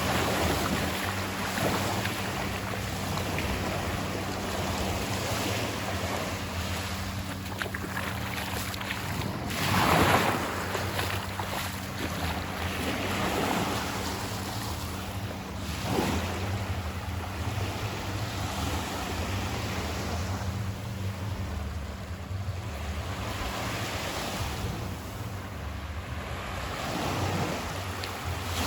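Atlantic surf washing up on a sandy beach, swelling as each wave breaks and runs in every several seconds, the loudest about ten seconds in, with wind buffeting the microphone.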